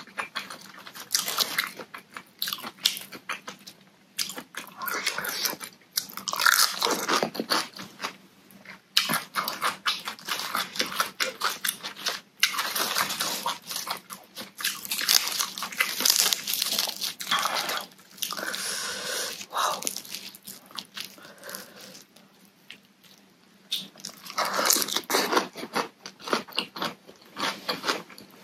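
A person crunching and chewing mouthfuls of raw vegetables close to the microphone: shredded green papaya salad and crisp lettuce. The crunching comes in bouts with short pauses between them.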